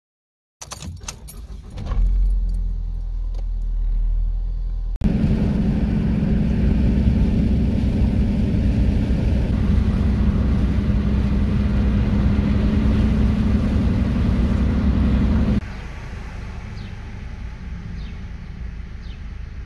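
Vehicle rumble in three abruptly cut segments: light clicks and jingling over a low rumble at first, then a loud, steady, deep rumble with a strong low hum for about ten seconds, cutting to a quieter rumble near the end.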